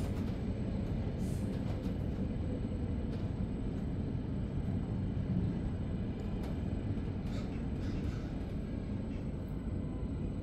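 Steady low rumble of a double-deck S-Bahn train running on the track, heard from inside the passenger coach, with a few faint clicks.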